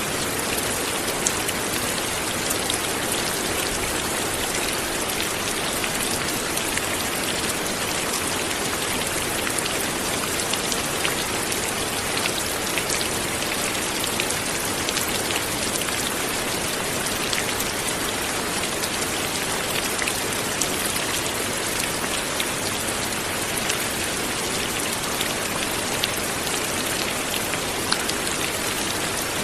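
Steady light rain falling, with many fine individual drops ticking on a surface.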